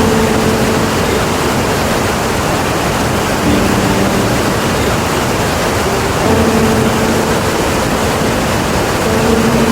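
Iguazu Falls, a huge waterfall, sending down a steady, dense rush of falling water.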